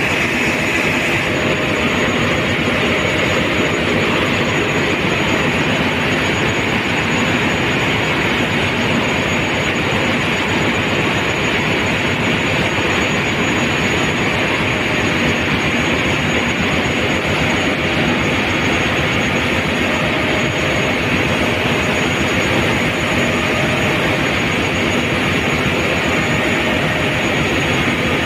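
Loud, steady machinery noise of a ship's engine room, with a thin high whine running through it.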